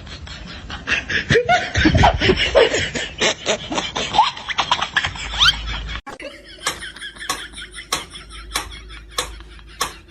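People laughing over a jumble of short clicks and squeaky pitched sounds, then, after an abrupt cut about six seconds in, a run of sharp taps about one and a half a second.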